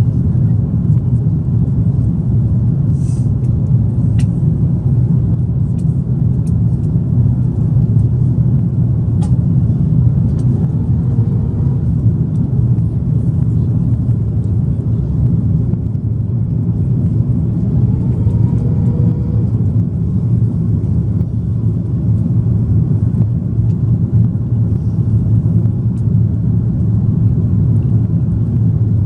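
Cabin noise of an Airbus A330-300 airliner: a steady low rumble of engines and airflow, with a few faint clicks.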